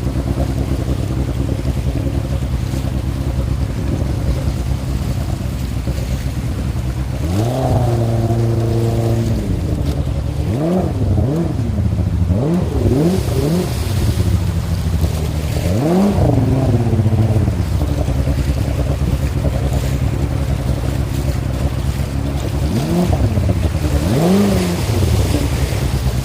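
Water-jet boat's engine running steadily, revving up and dropping back several times: about six seconds in, repeatedly between about nine and thirteen seconds, about fourteen seconds in, and again about twenty-two seconds in.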